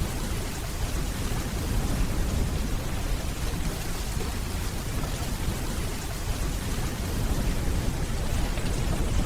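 Steady rainfall hissing on hard surfaces over a low, continuous rumble of distant thunder, which swells a little near the end.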